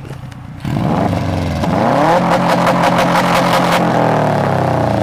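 2006 Subaru WRX STI's turbocharged 2.5-litre flat-four, heard at the tailpipe, revved hard about a second in. The revs climb and are then held high.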